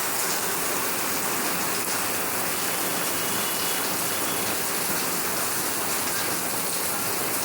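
Heavy rain bucketing down, a steady, unbroken hiss of pouring water.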